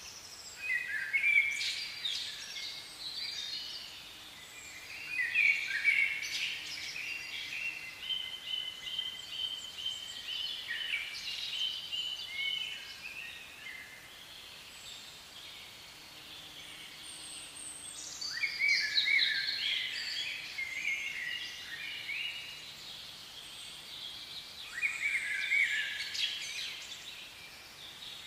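Songbirds singing, a run of chirps and trilled phrases that come and go with pauses of a few seconds between them.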